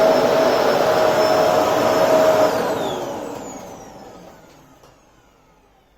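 Electrolux Precision bagless upright vacuum cleaner running steadily, then stopping about two and a half seconds in. Its motor winds down with a falling whine over the next few seconds.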